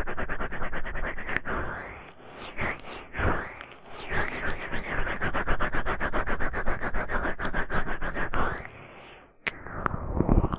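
Ear-cleaning tool, such as an ear pick, scratching and scraping rapidly against an ASMR microphone's ear, a fast run of strokes that eases off briefly a few times, most deeply about nine seconds in.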